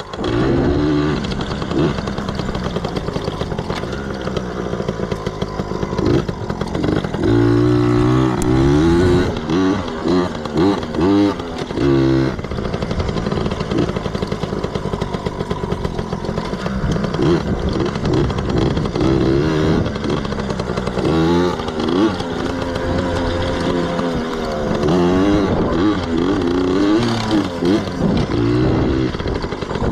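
Yamaha PW80 dirt bike's small two-stroke single-cylinder engine running as the bike is ridden, revving up and down again and again, most busily around eight to twelve seconds in and again after about twenty seconds.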